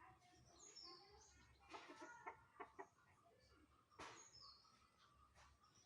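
Chickens clucking faintly, with a quick run of short clucks about two seconds in and a few brief high calls.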